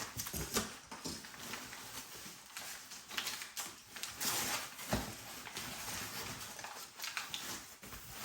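Packaging being rummaged through and unwrapped, with an irregular run of rustling and crinkling and small knocks, as the bar risers are dug out of the parcel.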